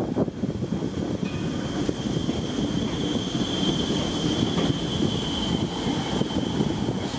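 Train running through a station with steady rumble and wheel clicks, and a high, steady wheel squeal that is strongest midway.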